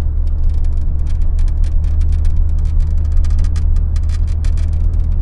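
Steady low rumble of a moving vehicle, heard from riding in it, with many small rattling clicks throughout.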